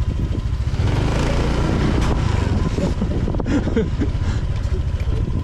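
Motor scooter engine running at low speed with a fast, even putter, and a rushing hiss of wind or road noise over roughly the first half.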